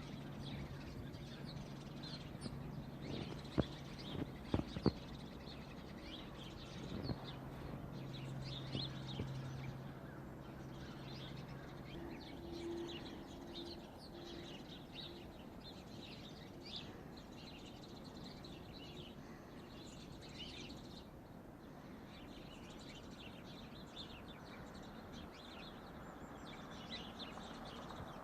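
Small birds chirping over and over, with a low steady hum through about the first twelve seconds and a few sharp knocks around four to five seconds in.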